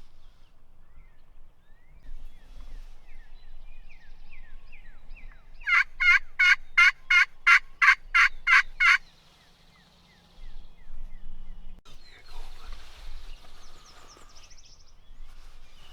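A run of about eleven loud, evenly spaced turkey yelps, roughly three a second, lasting about three seconds.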